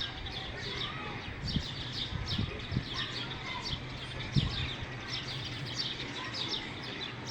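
Small birds chirping in quick runs of short, high, falling notes, with a steady low hum underneath and a few brief low thumps.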